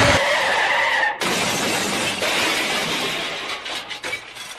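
Road crash sound effect: glass shattering and debris scattering, a dense rush of noise that breaks off about a second in, then carries on and fades out.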